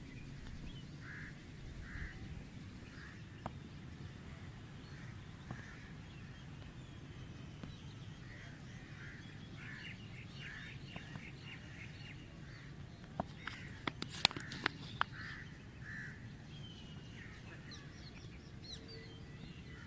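Birds calling over and over in short notes, over a steady low outdoor rumble. About two-thirds of the way through comes a quick cluster of sharp knocks, the loudest sounds here.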